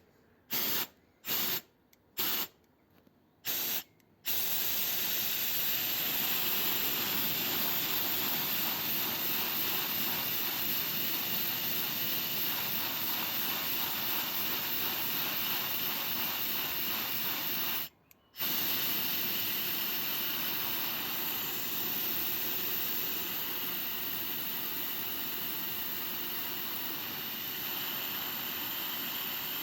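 Heat gun blowing hot air, switched on in a few short bursts and then running steadily with a loud, even hiss. It is warming a Holley bimetallic choke spring so that the coil winds round.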